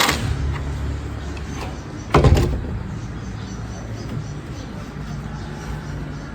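Car engine running steadily, with a sharp click at the start and a heavy thump about two seconds in.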